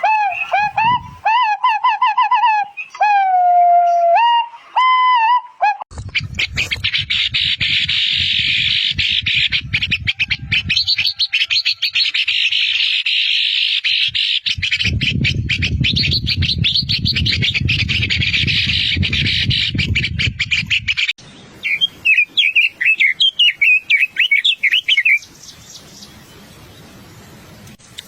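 White-browed scimitar babbler calling: a run of clear, pitched whistled notes. About six seconds in they give way to a long, harsh, dense chatter, with a low rumble under parts of it. Near the end come a few seconds of rapid warbling trills.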